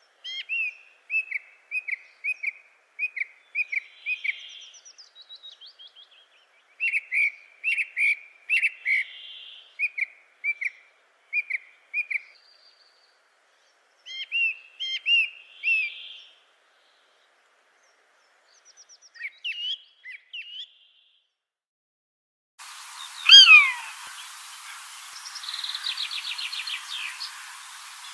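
Bird calls: runs of short, high chirps about twice a second, broken by pauses. Near the end the background turns noisier, with a few loud calls that slide downward in pitch and a fast trill.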